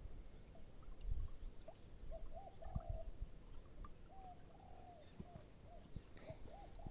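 Faint outdoor animal sounds: short, arched hooting calls repeated in small groups over a steady, high-pitched insect trill, with a few soft low thumps.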